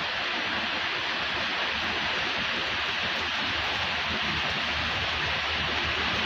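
Steady rushing noise of a summer storm, heavy rain and strong wind, without a break.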